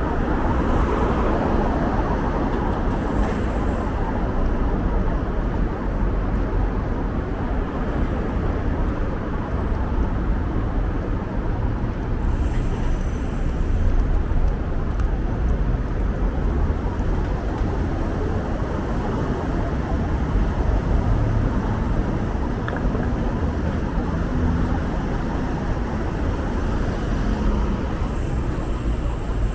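Steady city street traffic noise: the rumble of passing cars and road noise.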